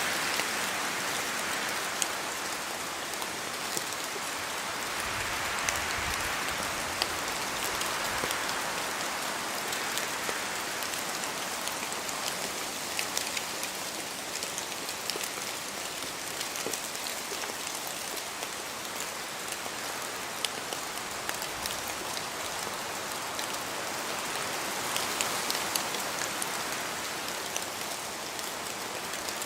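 Steady rain falling in a spruce forest, with many separate drops dripping from the trees in sharp ticks. Wind swells in the branches, most strongly near the start and again near the end.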